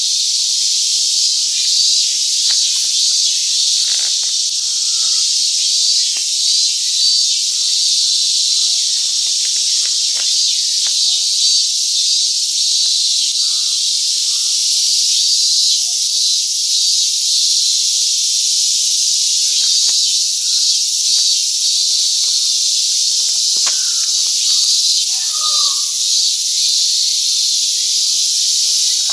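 Cicadas singing in a dense, steady chorus, a high sizzling hiss that never lets up.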